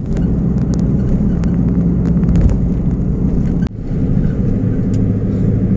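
Steady low drone of a running vehicle, with an engine hum, broken by a brief dropout about two-thirds of the way through.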